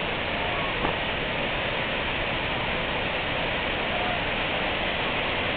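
Large waterfall rushing: a steady, even roar of falling water.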